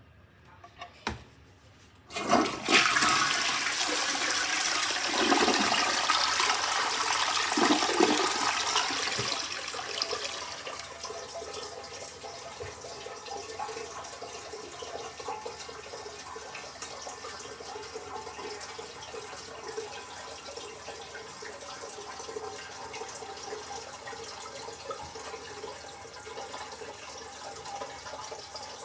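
2009 Vortens Vienna toilet flushing: a click about a second in, then a sudden loud rush of water that eases off after about eight seconds into the steady hiss of the tank and bowl refilling.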